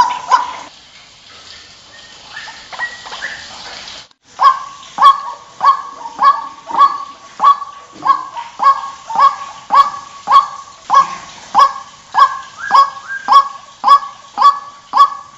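White-breasted waterhen calling. Fainter scattered calls break off in a brief drop-out about four seconds in, and then comes a loud, regular series of repeated honking notes, about two a second.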